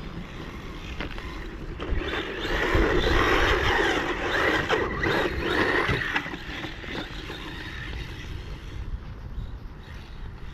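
1:18-scale electric RC truck running, its small motor whining and tyres rasping over the ground, loudest from about two to six seconds in as it passes close. Wind rumbles on the microphone.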